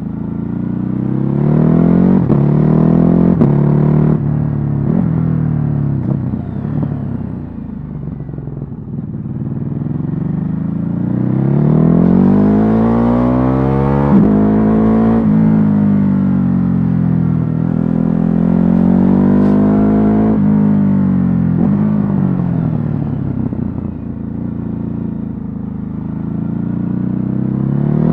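Ducati Hypermotard 950's stock 937 cc L-twin engine under way. The revs rise and fall repeatedly as the bike accelerates and slows, with sudden drops in pitch at gear changes.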